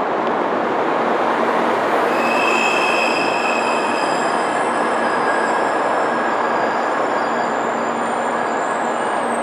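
Shinkansen bullet train running slowly into a station platform: a steady rolling rumble, with high steady squealing tones from the wheels and brakes setting in about two seconds in and fading a few seconds later.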